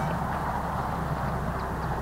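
Narrow-gauge train running along the track, a steady low rumble with a faint repeating beat.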